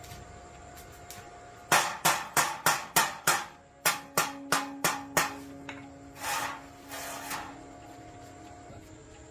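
Hammer blows on metal, about a dozen sharp strikes at roughly three a second, followed by two short scraping sounds.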